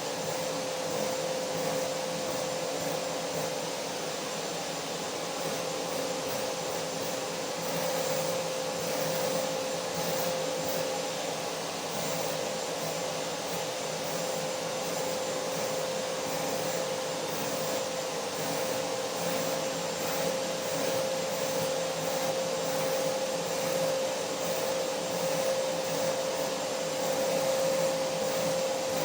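Vacuum cleaner motor running steadily, a constant whooshing rush of air with a steady whine near the middle of the range.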